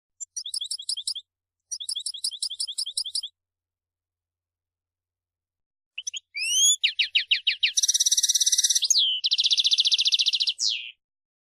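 European goldfinch singing: two short phrases of rapid, high twittering notes, then after a pause a louder phrase of quick rising notes running into two long buzzy trills and a final falling note.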